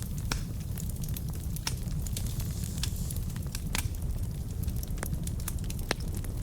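Wood fire burning in a fireplace: burning logs crackling and popping irregularly over a steady low rumble of the flames, with a few sharper pops along the way.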